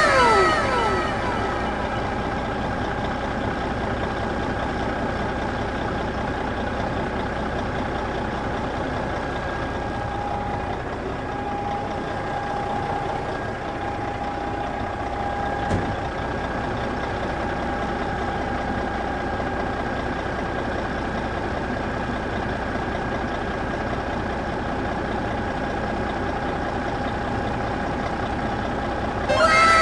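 A vehicle engine running steadily at an even pitch, with a faint held tone in the middle and a single click about two-thirds of the way through.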